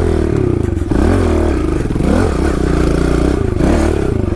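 Kawasaki KLX110L pit bike's small four-stroke single-cylinder engine being ridden, its pitch rising and falling several times as the throttle is opened and closed.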